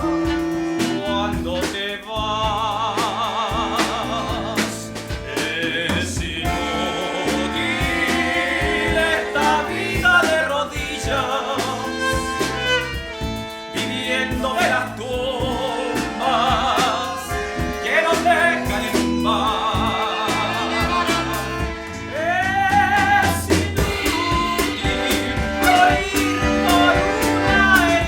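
A live band playing a song in a passage without transcribed lyrics: drums, bass and guitars under a wavering, vibrato-laden melody line.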